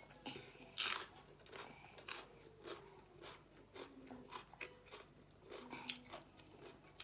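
Close-up chewing and biting on stir-fried clams, with scattered short, sharp clicks and crunches; the loudest comes about a second in.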